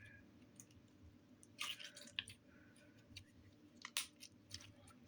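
Slime being squeezed and kneaded by hand, giving faint scattered clicks and squishy crackles, a few small clusters of them.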